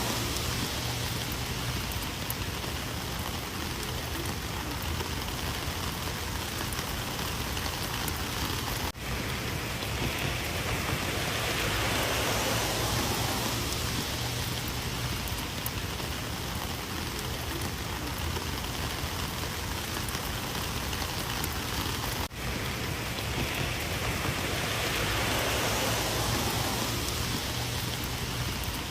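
Heavy rain falling steadily, swelling and easing in strength, with two very brief dips in the sound.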